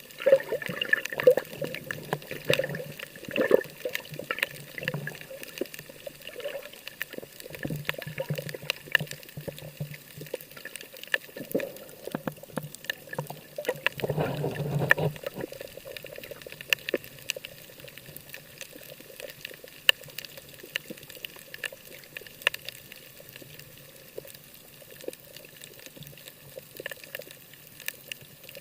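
Seawater sloshing and splashing close to the microphone, with many irregular small splashes and clicks. It is busiest in the first few seconds and again about halfway through, then calmer.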